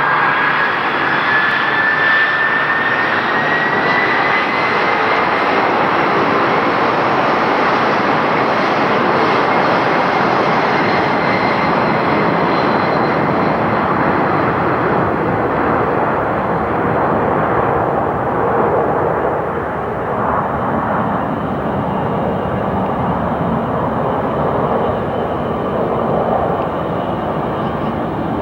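McDonnell Douglas DC-10 jet engines at takeoff power during the takeoff roll and climb-out. A loud, steady jet noise with a whine that rises in pitch over the first few seconds, its high end fading away in the second half as the aircraft departs.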